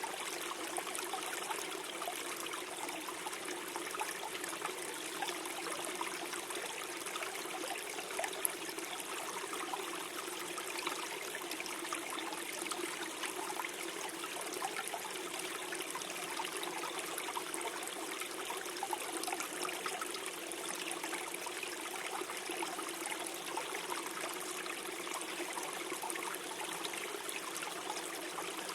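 Small stream flowing and gurgling steadily over stones, an even rush of water with fine bubbling trickles.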